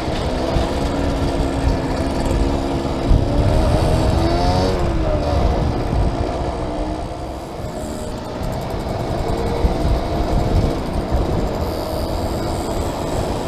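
Small motorcycle engine running under way, its pitch rising and falling with the throttle around four to five seconds in, with wind rumbling on the microphone.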